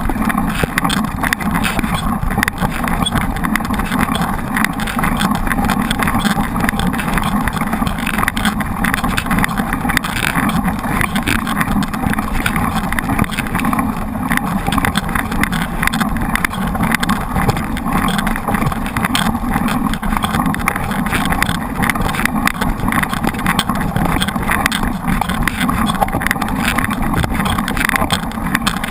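Riding noise of a mountain bike recorded on a bike- or body-mounted camera: steady rushing of wind and tyres on a rough trail, with constant small rattles and knocks from the bike.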